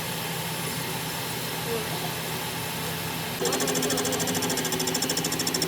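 Workshop machinery running with a steady hum; about three and a half seconds in, a louder, fast, even rattle starts at roughly ten beats a second.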